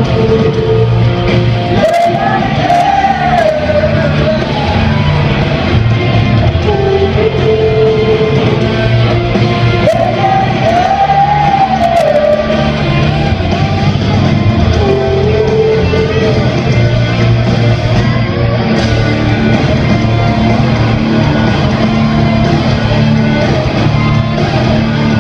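Loud rock music from a band with guitars and a sung melody line.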